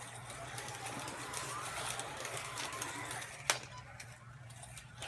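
Carrera Digital 132 slot cars' small electric motors whining around the track, the pitch rising and falling with the throttle, over a steady low hum. A single sharp click sounds about three and a half seconds in.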